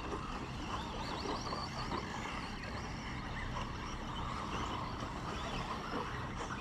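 RC short course race trucks running on the track: a steady mix of small motors whining and tyre noise.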